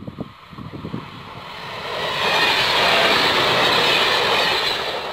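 Electric multiple-unit passenger train passing close by at speed: a rush of wheel and rail noise that swells over about two seconds, holds, then begins to fade near the end.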